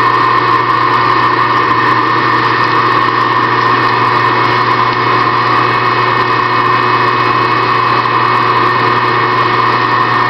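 Small benchtop machine tool's electric motor running steadily with a constant whine, as a part in aluminum is drilled out.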